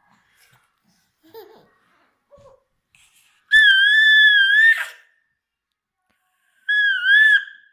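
An eight-month-old baby letting out two loud, high-pitched squeals that waver in pitch, the first lasting over a second, the second shorter near the end, after a few faint babbling sounds.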